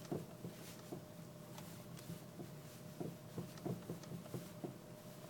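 Honda Civic steering rack knocking as the steering wheel is rocked back and forth: a faint run of short, dull knocks, two or three a second, over a steady low hum. The knock is the sign of a worn steering rack.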